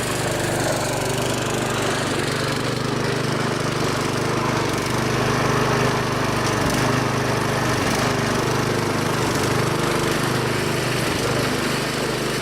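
Riding lawn tractor's small gasoline engine running steadily as the tractor is driven.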